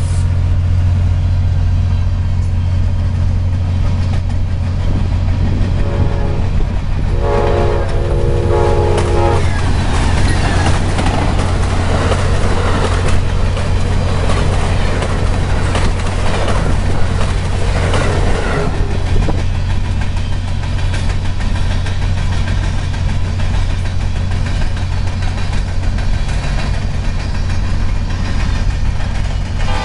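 Amtrak diesel passenger locomotive sounding its horn chord, a short blast about six seconds in and a longer one right after, then passing at speed over a grade crossing with rail clatter and rushing noise for about nine seconds. A steady low rumble runs underneath.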